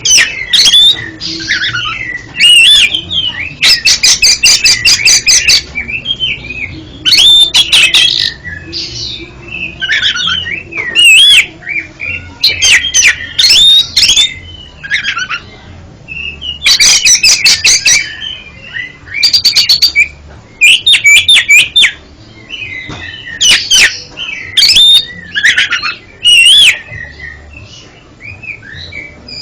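Oriental magpie-robin (kacer) singing a loud, varied song throughout: bending whistled phrases alternating with fast rattling runs of sharp repeated notes.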